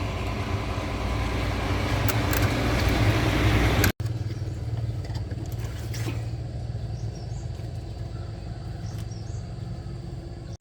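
Pickup truck engine running, growing louder over the first few seconds; after a sudden cut it runs on steadily at a lower level.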